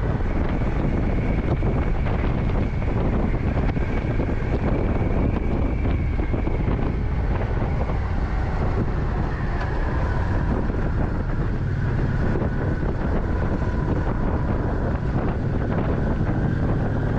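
Wind buffeting the microphone of a moving motorcycle, a steady rush with the engine's drone faintly beneath it.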